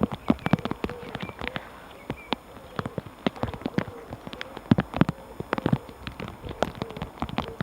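A passing train clanking: its wheels and running gear give rapid, irregular metallic knocks, with a faint wavering tone underneath.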